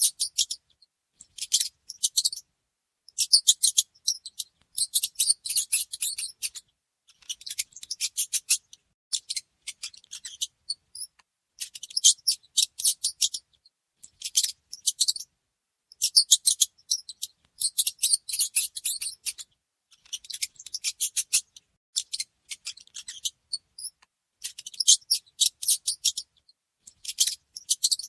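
Mouse squeaking: rapid trains of very high-pitched squeaks in bursts of about a second, separated by short silent gaps, repeating throughout.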